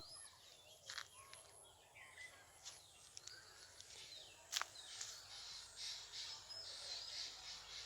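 Faint outdoor ambience with scattered distant bird chirps and a few soft clicks, the sharpest a little past halfway.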